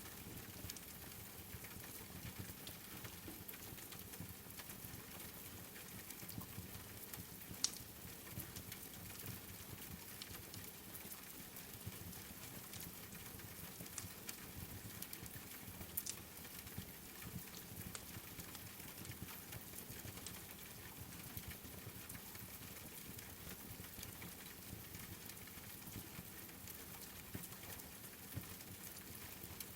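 Steady rain hiss with a wood fire crackling, scattered sharp pops over it, the loudest one about eight seconds in and another about sixteen seconds in.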